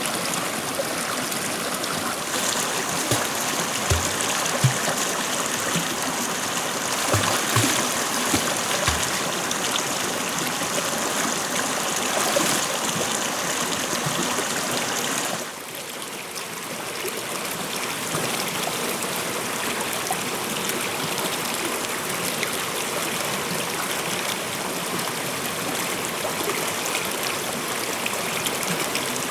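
Water flowing steadily in a stream, a continuous rushing and trickling. A steady high-pitched tone sits over it for the first half, and a few soft low knocks come in the first ten seconds. The level drops briefly about halfway through.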